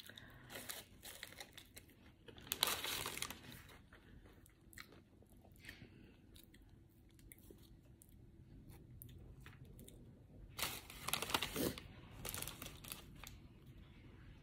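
Eating sounds: a person chewing and crunching a crisp hash brown and biting into an Egg McMuffin. There are soft, scattered crunches throughout, with two louder spells of crunching, one a few seconds in and one about two-thirds of the way through.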